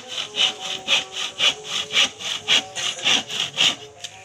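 Hand saw cutting wood, probably a plank, in steady back-and-forth strokes about two a second, easing off near the end.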